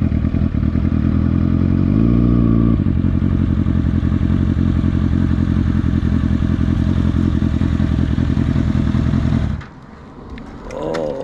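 Kawasaki ZX-6R sport bike's inline-four engine running steadily while riding, with a brief rise in pitch about two seconds in. Near the end the engine sound drops away suddenly, as if the throttle is closed, and a short wavering sound follows.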